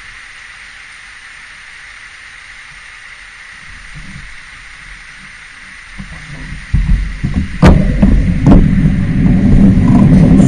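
A steady faint hiss for about six seconds, then a car engine close to the bicycle comes in as a low rumble and grows loud. Two sharp knocks come about a second apart near the middle.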